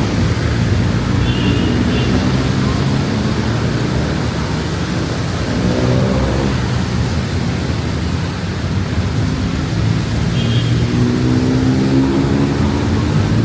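Steady traffic noise: vehicle engines running under a constant rushing hiss, with an engine rising in pitch about six seconds in and again near the end.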